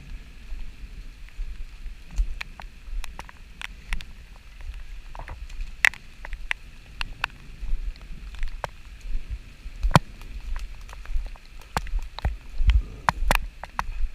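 Rain falling, with many single heavy drops ticking sharply at irregular moments over a faint hiss and an uneven low rumble.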